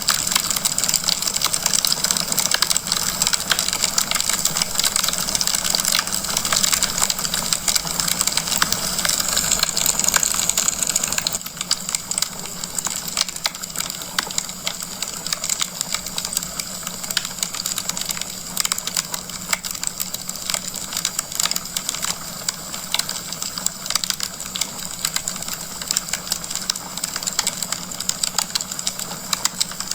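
Wood fire crackling in a fireplace: a dense run of small pops and snaps over a steady hiss, dropping a little in loudness about eleven seconds in.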